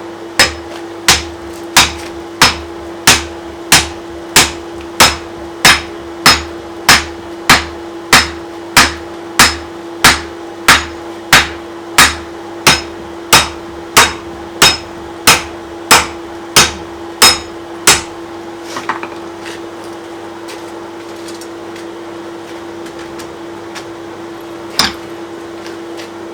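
Blacksmith's hammer striking steel on an anvil, each blow ringing: a steady run of about thirty blows, roughly one and a half a second, that stops about two-thirds of the way through, followed by a lone blow near the end. A steady low hum runs underneath.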